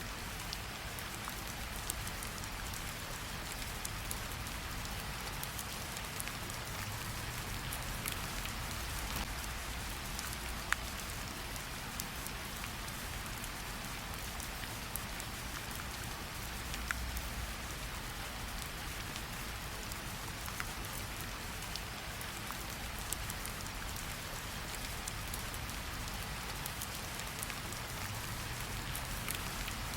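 Steady rain falling, with single louder drops ticking out now and then against the even patter.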